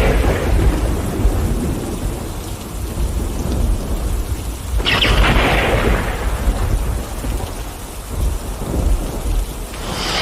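Thunderstorm: steady rain with a continuous low rumble of thunder, and a sudden sharper crack of thunder about halfway through and another near the end, each fading away over a second or two.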